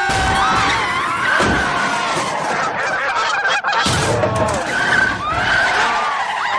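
Cartoon sound effects of a flock of geese honking frantically over vehicle noise, with several sharp crash thuds along the way.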